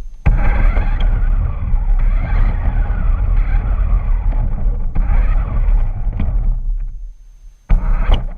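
Remote-control truck running with the camera mounted on it: motor and tyre noise over a heavy low rumble. It drops away about six and a half seconds in and starts again near the end.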